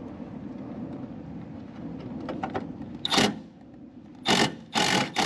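Cordless drill driving in the mounting screws of a new air-conditioner contactor, in four short bursts in the second half.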